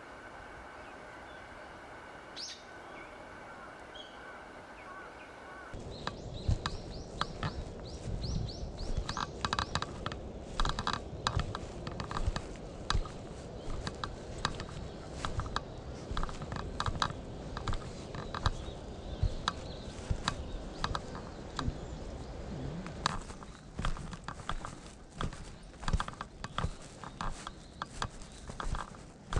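Footsteps of a person walking on a forest path, a run of sharp crunching steps that starts about six seconds in.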